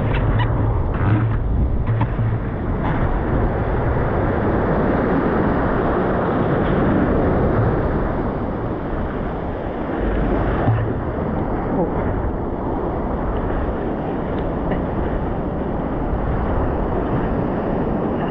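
Steady rushing noise with a low rumble, wind buffeting the microphone.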